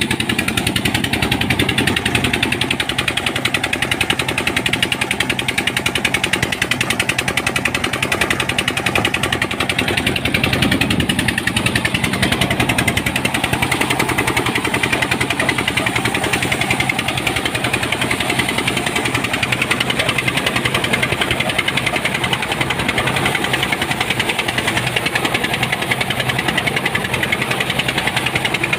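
Engine-driven rice power thresher running steadily, a loud, fast, even mechanical chatter with no change in speed.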